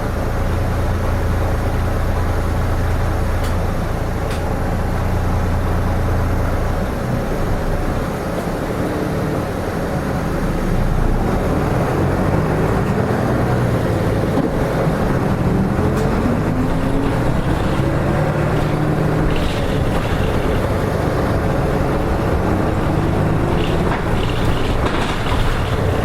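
Nissan Diesel KK-RM252GSN bus's diesel engine idling with a steady low hum, heard from inside the bus. About eight seconds in the bus pulls away, and the engine's pitch rises as it accelerates through the gears.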